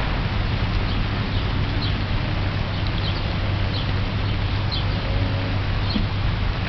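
Steady rain falling, the drops splashing into the surface of a water-filled rain barrel, over a constant low hum.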